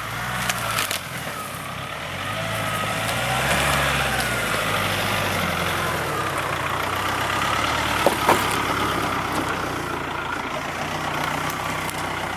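A 4WD vehicle driving slowly over rough off-road ground, its engine revs rising and falling, with the rattle of the body and track, and two sharp knocks close together about eight seconds in.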